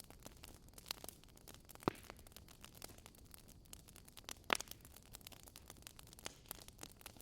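Fireplace wood fire crackling faintly: frequent small snaps and ticks over a low hiss, with two louder pops about two seconds and four and a half seconds in.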